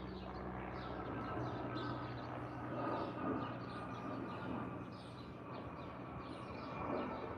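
Small garden birds chirping repeatedly with short, quick falling notes, over a steady low rumble and hum in the background.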